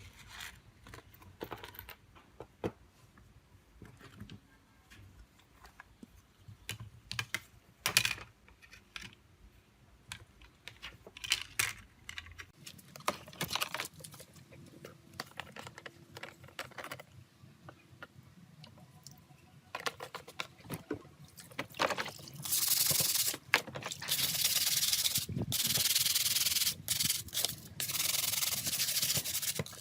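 Scattered small clicks and taps, then from about two-thirds of the way in, repeated loud rubbing strokes of hand sanding on a smartphone part.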